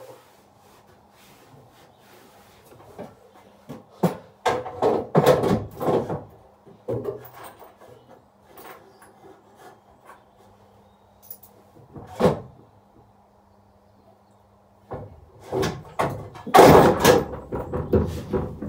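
Irregular knocking and rattling from a coin-operated kiddie ride being handled to free a coin stuck in its coin mechanism, with a loud cluster of clatters near the end. A faint steady low hum runs underneath.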